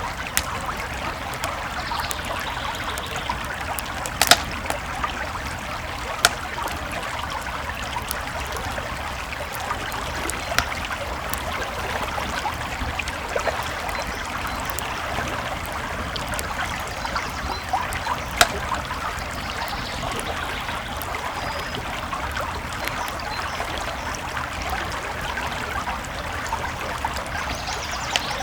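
Campfire crackling with scattered sharp pops, the loudest about four seconds in, over a creek flowing steadily.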